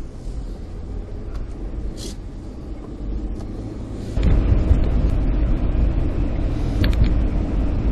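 Car heard from inside, a steady low rumble with a few sharp clicks; about four seconds in, a much louder low rumble sets in suddenly and holds steady.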